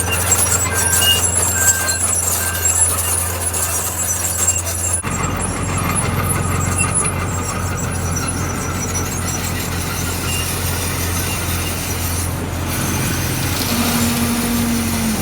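Heavy earthmoving machinery running: a steady diesel engine drone with short, repeated high squeaking tones over the first few seconds. The sound changes abruptly about five seconds in, and a brief steady whine comes in near the end.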